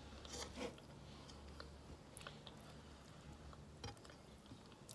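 Faint chewing of a mouthful of food, with a few small soft clicks from eating by hand, over a low steady hum.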